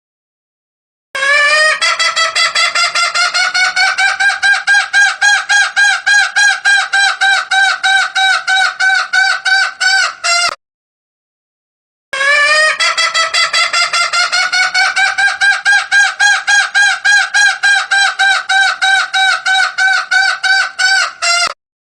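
Junglefowl call recording: two long bouts of rapid, evenly repeated clucking notes, about four or five a second, each bout starting a little lower and rising slightly in pitch. Played as a lure call to draw wild junglefowl.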